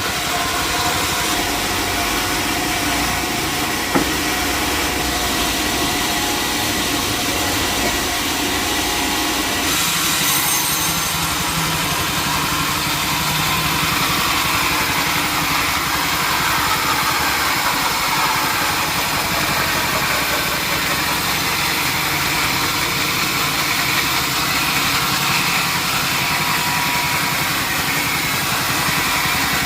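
Sawmill machinery running steadily with a constant engine-like hum, and a single sharp knock about four seconds in.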